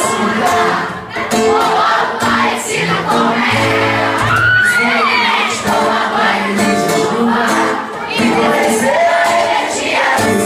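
Live band playing with the audience singing along, shouting and cheering; a shrill scream rises and falls about four to five seconds in.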